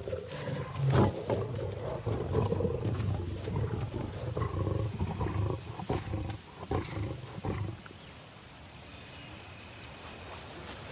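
Lions fighting: several lions of a pride attacking a young male, with loud, continuous vocal sound that dies away about eight seconds in.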